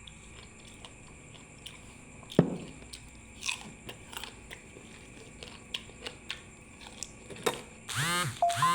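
A person chewing and biting food close to the microphone: soft mouth clicks and crisp crunches, with a sharper bite about two and a half seconds in. Near the end comes a brief pitched sound whose pitch bends up and down.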